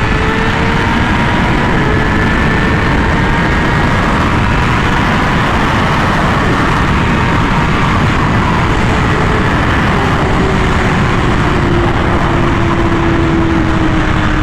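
Honda Fireblade RR-R SP's inline-four engine running at steady speed through its SC Project exhaust, its note drifting slowly in pitch, under a heavy steady rush of wind noise.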